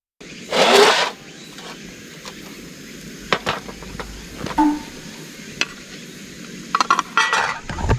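Metal camp cookware being handled: a loud scrape near the start, then scattered clinks and knocks, with a cluster of rattles near the end, over a steady background hiss.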